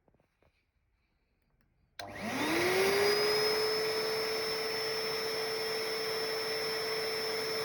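Minato MPV-101 commercial wet/dry vacuum cleaner switched on about two seconds in: its motor spins up with a rising hum that settles within a second, then runs steadily with a high whine over the rush of air.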